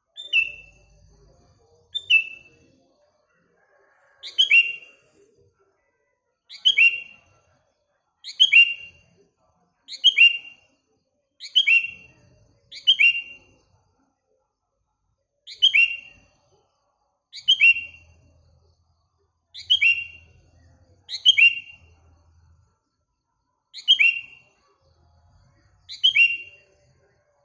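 A songbird repeating one short, sharp chirp that drops in pitch, about fourteen times at intervals of roughly two seconds.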